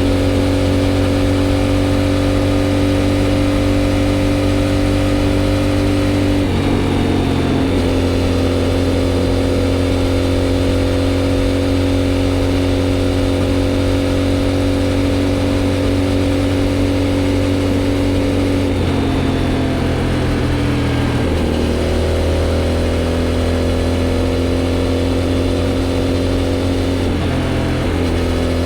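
Aprilia Shiver 750's V-twin engine through an aftermarket GPR exhaust, running steadily under way. The engine note holds a steady pitch and shifts briefly three times, about six seconds in, around twenty seconds in and near the end, as the revs change.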